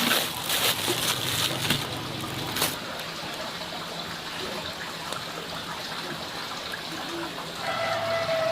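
Water trickling and running steadily, with some clicks and rustling in the first few seconds.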